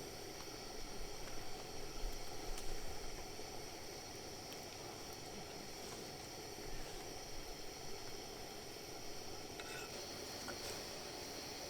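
Food sizzling and simmering in a pot over a campfire: a steady hiss with a few faint clicks.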